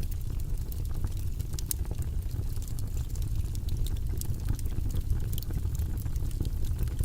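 Wood fire burning in a fireplace: a steady low rumble of flames with frequent small sharp crackles and pops.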